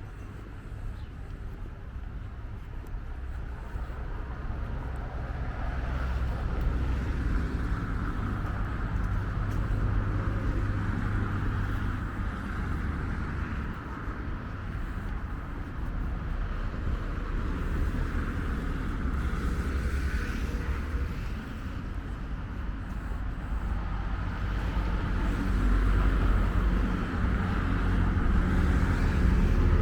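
Motor engine running close by, a low rumble that swells and fades and grows louder near the end.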